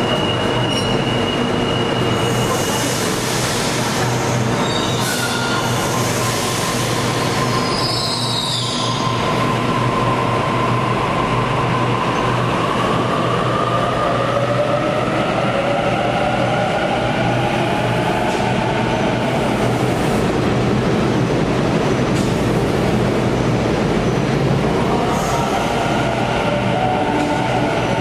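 A train in motion: a steady rumble of wheels on rail, with whining tones that slowly rise in pitch from about a third of the way in.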